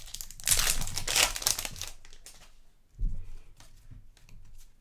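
Plastic trading-card pack wrapper crinkling as it is torn open, loudest in the first two seconds. Quieter clicks of card handling and a soft thump follow.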